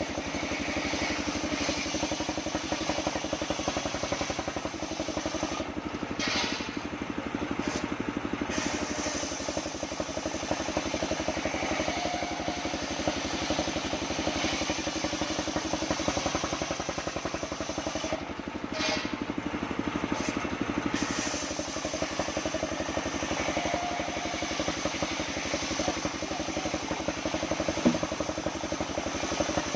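The engine of a homemade circular sawmill running steadily, with an even firing beat.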